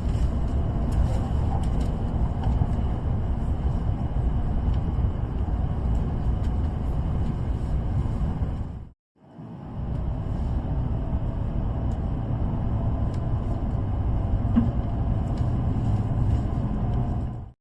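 Train running, a steady low rumble. The sound cuts out abruptly about halfway and resumes a moment later.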